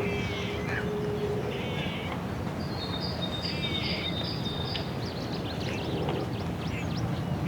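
Small birds chirping in several short twittering phrases, with a high thin whistled note held for about two seconds in the middle, over a steady low hum of distant city noise. A steady low tone fades out in the first second and a half.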